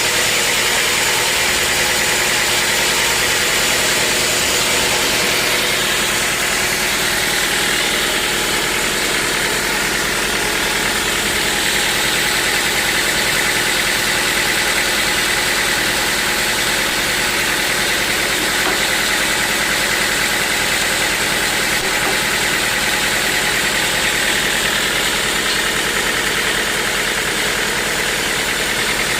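Sawmill machinery running steadily: a continuous mechanical drone with a steady high whine.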